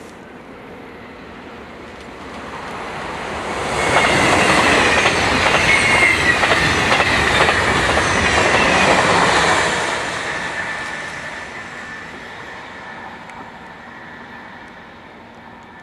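A train passing close by. It builds up over a couple of seconds, goes past loudly for about six seconds with wheels clattering over the rail joints and a high wheel squeal, then fades away.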